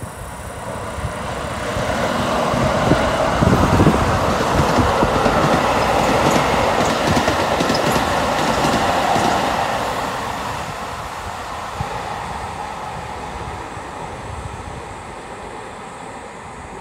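Keikyu electric train passing: the running noise of its wheels on the rails builds over the first couple of seconds, stays loud for several seconds, then fades as it moves away.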